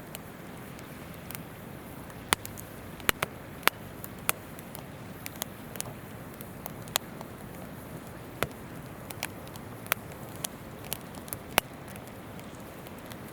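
Campfire of burning wood crackling, with irregular sharp pops, a few of them loud, over the steady rush of a flowing river.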